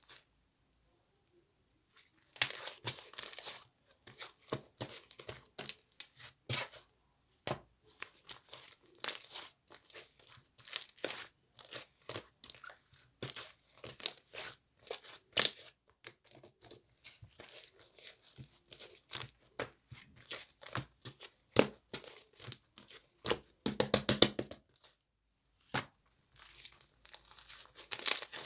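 Cloud slime being pulled apart and squeezed by hand: soft tearing and crackling in short, irregular handfuls. It starts about two seconds in, with a denser run of rapid crackles around 24 seconds.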